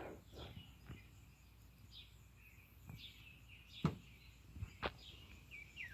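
Faint birds chirping in short notes, with a quick run of chirps near the end. Two sharp knocks about four and five seconds in, the first the loudest sound.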